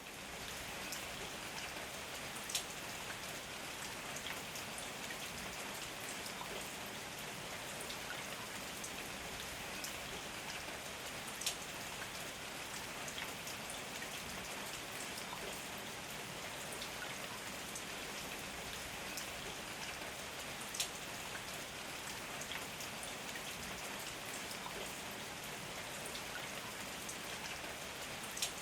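Heavy rain falling steadily, a dense even patter of drops. A few sharp, louder single taps stand out from it, about four times.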